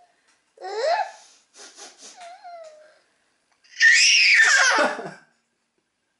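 A baby of about ten months vocalizing: a short rising coo, then soft breathy sounds with a small wavering tone, then a loud high squeal that slides far down in pitch.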